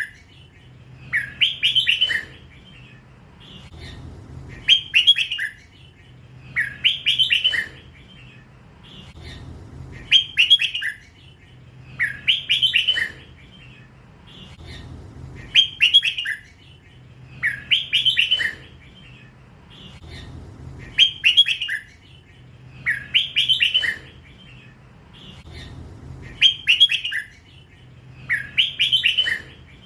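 Young hybrid-bred red-whiskered bulbul, still in its first plumage, singing in the drawn-out 'lak wai' style. It repeats a short, loud, bright phrase about every two seconds.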